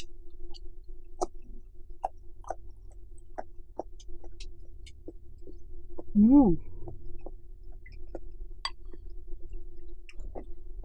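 Close-miked eating sounds: wet mouth clicks and chewing as sweet potato noodles are eaten. A short voiced sound comes about six seconds in, over a steady low hum.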